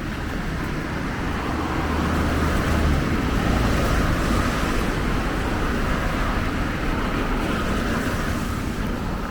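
Steady rainfall with a car passing on the wet road, its tyre hiss swelling toward the middle and fading near the end.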